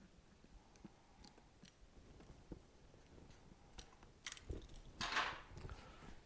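Scattered light clicks and taps of small objects being handled, with a brief louder scrape or rustle about five seconds in.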